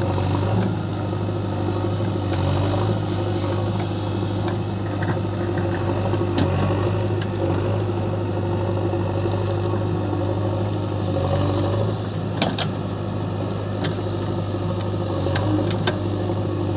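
Diesel engine of a JCB digger running steadily under work, with a sharp clank about twelve seconds in and a few lighter knocks near the end.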